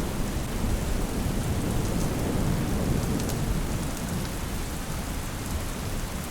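Steady rain with a low rolling thunder rumble that slowly fades. A few faint sharp ticks sound over it.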